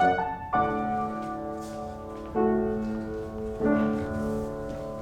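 Piano playing the accompaniment for a ballet class exercise: three slow chords struck and held, each fading, as the music draws to a close.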